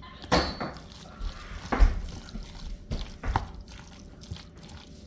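Macaroni salad dressed with mayonnaise being stirred in a bowl: wet squishing, with a few sharper knocks of the utensil against the bowl, about once every second and a half.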